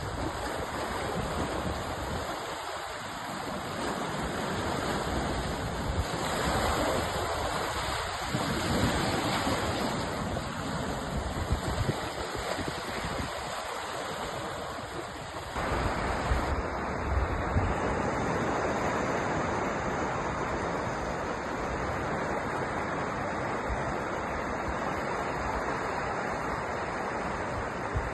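Sea waves washing and breaking on the shore: a continuous surf noise that swells and ebbs, its character changing abruptly about halfway through.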